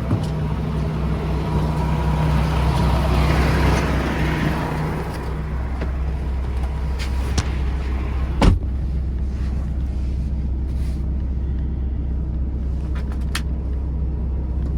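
Semi truck's diesel engine running steadily with a low hum, while air hisses for the first few seconds and then dies away. A single sharp knock sounds about halfway through.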